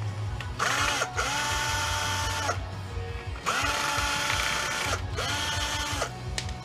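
Power drill or driver motor running in four short bursts, each winding up to speed, holding steady and slowing back down.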